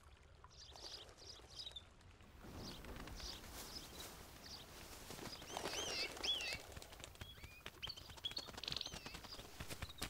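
Faint chirping of small birds: scattered short, high whistled calls with rising and falling glides, busiest around the middle, over a soft background with fine ticks.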